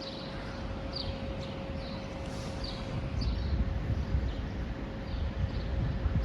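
Small birds chirping: short, high, falling chirps repeated about once or twice a second, over a low rumbling noise that grows louder about three seconds in and a faint steady hum.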